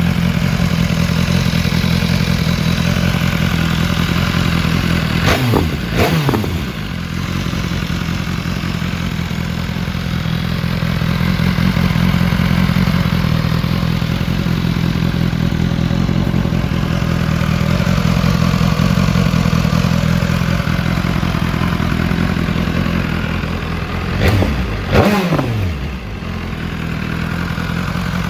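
BMW S 1000 R inline four-cylinder motorcycle engine idling steadily. It is revved with a pair of quick throttle blips about five seconds in and again near the end, each time the revs dropping back to idle.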